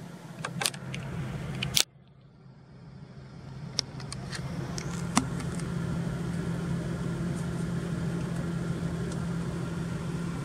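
Honda Civic Type R FN2's 2.0-litre four-cylinder engine, with an aftermarket SEEKER exhaust, idling steadily as heard inside the cabin. A few sharp clicks sound over it; after a loud click about two seconds in, the sound drops away and then builds back over the next few seconds.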